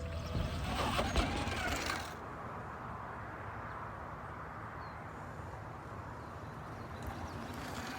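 Wind and riding noise on a camera carried on a Sur-Ron Light Bee X electric dirt bike. For the first two seconds there is rough buffeting with a few knocks, then a steady rush.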